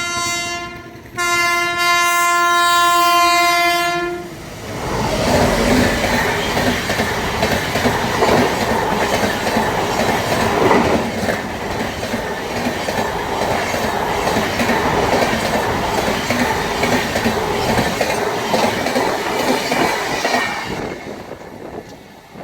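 WAP-7 electric locomotive horn sounding one long steady blast about a second in, then the express train rushing past at speed, wheels clattering over the rail joints, until the noise dies away near the end.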